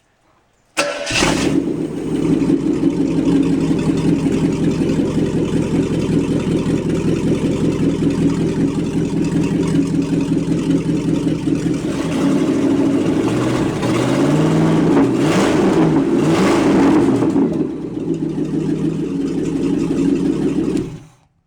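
International Harvester 345 V8 in a 1967 International 1100B pickup starting about a second in and running steadily. Its pitch rises and falls a few times in the second half as it is revved, and it cuts off suddenly near the end.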